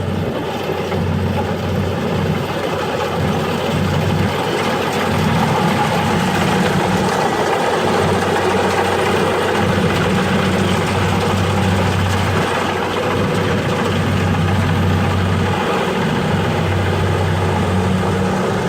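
A machine's engine running steadily throughout, with a continuous low hum under a noisy mid-range.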